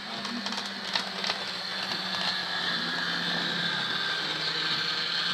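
Model railway diesel locomotive running along the track, its electric motor giving a steady hum and whine that grows slightly louder, with a few sharp clicks about a second in.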